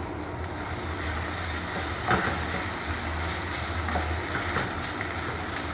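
Onions, ginger-garlic paste, ground spices and cashews sizzling in oil in a non-stick kadai while a wooden spatula stirs them, with a couple of soft scrapes against the pan.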